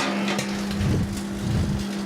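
Microwave oven running with a steady electrical hum while the burnt carbon tracks of a keyboard membrane inside crackle with sparks, over a rumble of wind on the microphone.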